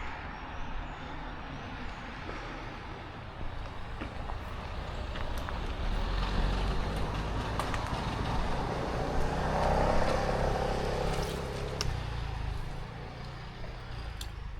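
A car passing on the road, growing louder about halfway through, loudest near the end, then fading away, over a steady rumble of road and wind noise.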